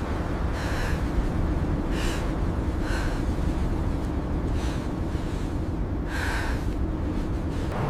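Five short, gasping breaths over a steady low rumble of blizzard wind.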